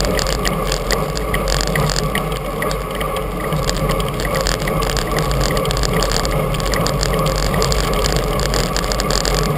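Steady wind and road noise on the action camera's microphone while riding a road bike in a group.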